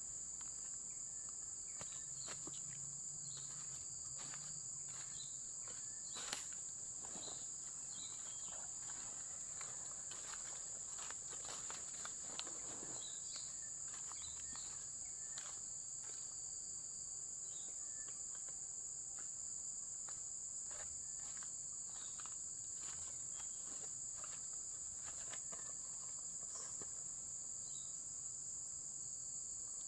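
A steady, high-pitched insect chorus that does not let up, with scattered faint clicks and small knocks over it, the sharpest about six seconds in.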